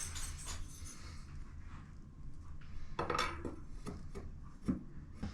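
Light metallic clinks and rattles of small plumbing parts and fittings being handled, a few sharp clicks from about halfway in, over a low steady hum.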